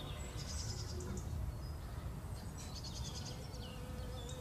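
Outdoor ambience: birds chirping in short clusters over a low steady rumble.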